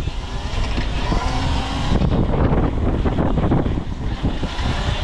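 Steady wind and road rumble heard while riding an e-bike, with traffic around.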